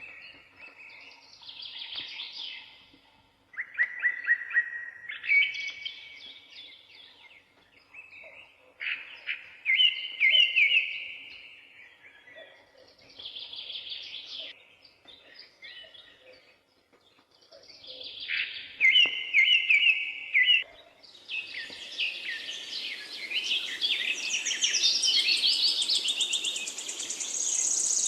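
Wild birds singing. One voice repeats a short phrase of quick chirped notes every several seconds, with other calls in between. About twenty seconds in, a denser chorus of overlapping, higher calls begins and carries on.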